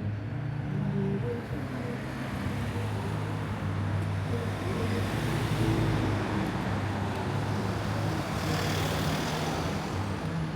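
Street traffic: vehicles passing under a steady low engine hum, with the noise swelling in the middle and a brief high hiss about eight seconds in.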